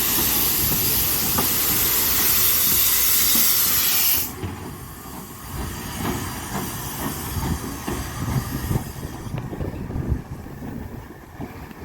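Steam locomotive letting off a loud, steady hiss of steam that cuts off sharply about four seconds in, leaving a low rumble with scattered knocks from the train.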